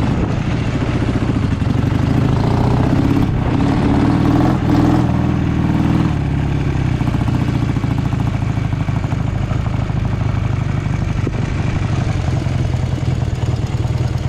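Motorcycle engine running steadily, revved a little at first and settling to a steady idle about six seconds in.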